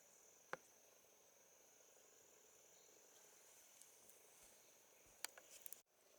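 Faint, steady high-pitched chirring of insects. A single sharp click comes about half a second in, and a few more clicks come near the end.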